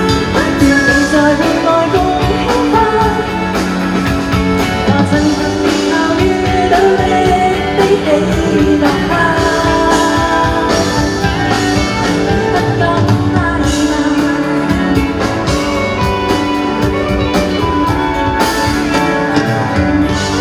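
Live pop-rock band music with a steady drum beat and sustained melody lines.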